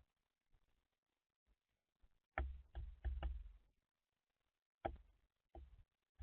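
Birds knocking and tapping on a bird feeder: a few irregular dull knocks, a cluster of them a little over two seconds in and a couple more near the end.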